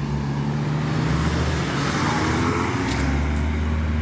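Road traffic close by: a steady low engine hum under a continuous rush of tyre noise.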